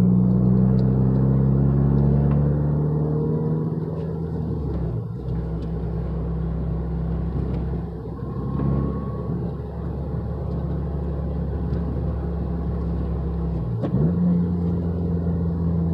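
Fiat 500 Abarth's 1.4-litre turbocharged four-cylinder engine, heard from inside the cabin while driving. Its note falls slowly over the first few seconds, dips briefly about five seconds in and again near the end, then settles into a steady drone.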